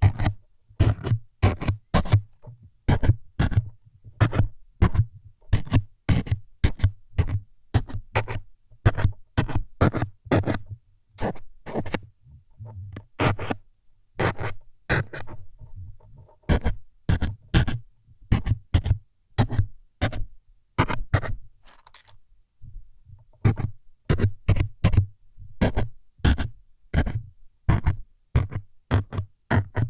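ASMR needle-stabbing sounds: a quick run of short, scraping stabs, about two a second, with a brief pause about twenty-two seconds in.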